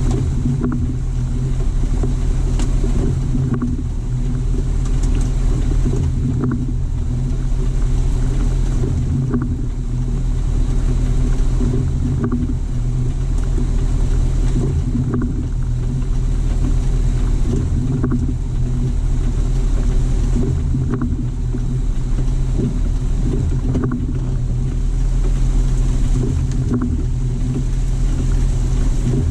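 Jeep TJ driving at a steady pace on a dirt forest track, heard from inside the cabin: a continuous low engine drone with road and tyre noise and a few small knocks from bumps.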